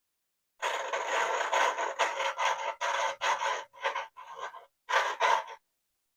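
Small-engine valve being worked back and forth in the cylinder head with abrasive lapping compound: a gritty metal-on-metal rasping scrape, first a steady run of about three seconds, then three shorter strokes. The valve stem is sticking in its guide.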